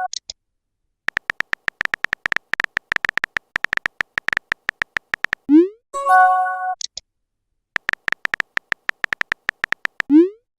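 Rapid phone keyboard typing clicks, then a short rising swoosh followed by an electronic chime, the sound of a text message being sent. The cycle of typing, swoosh and chime plays twice.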